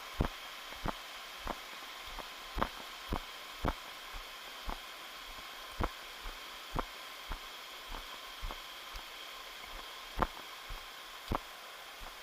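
Irregular soft thumps, about two a second, over a steady hiss.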